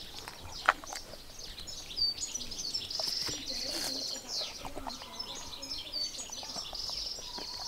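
Small birds chirping and calling, with a couple of fast buzzy trills among short high notes, and a few faint clicks underneath.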